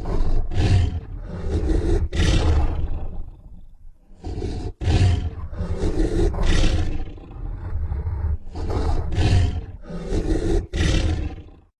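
Designed creature sound effects for a Sarcosuchus, a giant prehistoric crocodilian: a run of deep roars one after another, each a second or two long. They cut off abruptly at the end.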